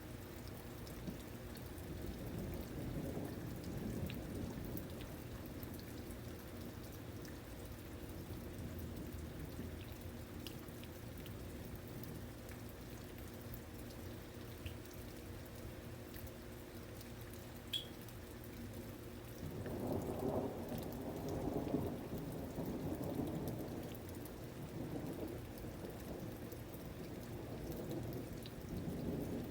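Steady rain falling, with low rolls of thunder swelling a few seconds in, more strongly about twenty seconds in, and again near the end.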